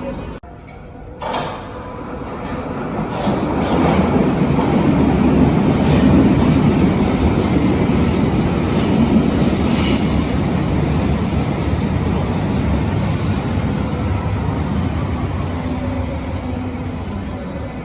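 Berlin large-profile U-Bahn train running on the track, a dense rumble that builds over a few seconds, stays loud, then slowly fades. There is a short sharp noise about a second in.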